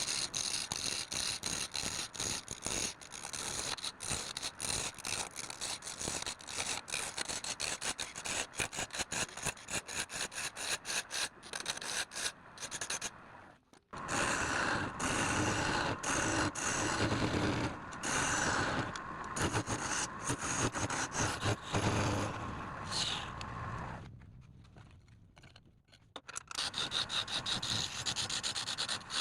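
A turning tool scraping and cutting wood on a lathe in quick, rasping strokes. It stops briefly about halfway through, runs on more steadily, fades away for a couple of seconds near the end, then starts again.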